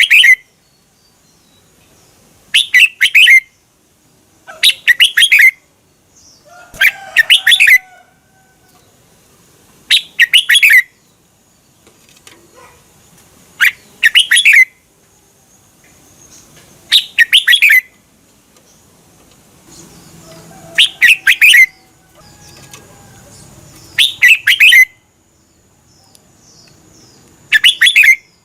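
Red-whiskered bulbul singing: loud, short phrases of quick notes, repeated about every three seconds, with fainter chirping between them.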